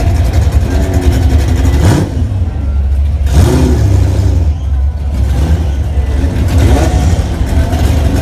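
A car engine and exhaust running at cruising speed with a steady low drone, the revs rising and falling a few times, around two and three and a half seconds in.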